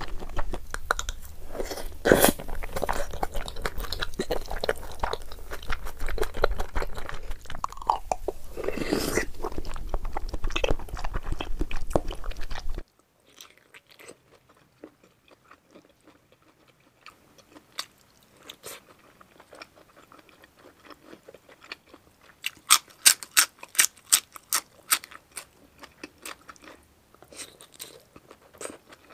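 Close-miked eating: wet chewing of spicy stew over a steady low hum, then, after an abrupt cut, quieter chewing of boneless chicken feet salad with a quick run of crisp crunches about three-quarters of the way through.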